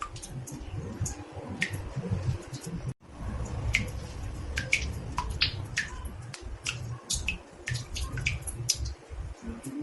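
Water drops falling into a bathtub: an irregular patter of short plinks, roughly two or three a second, some dropping in pitch, over a low rumble. The sound cuts out for an instant about three seconds in.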